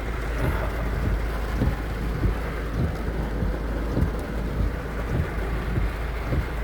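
Heavy rain pouring down steadily, with many irregular drop impacts and a low rumble underneath.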